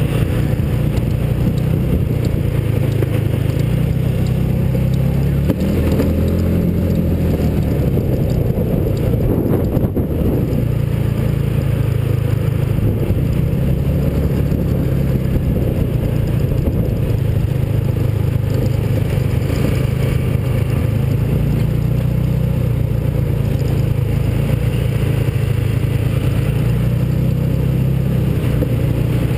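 Mini hotrod's small engine running under way, heard from on board, its note mostly steady with a brief rise and fall in pitch about six seconds in.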